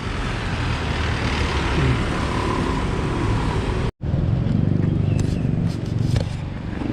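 Street traffic: motor vehicles running past on the road, with the sound cut off abruptly for an instant about four seconds in before resuming with a louder engine hum.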